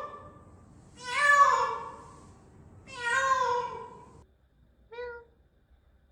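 Domestic cat meowing: two long, loud meows a couple of seconds apart, then a short, quieter meow about five seconds in.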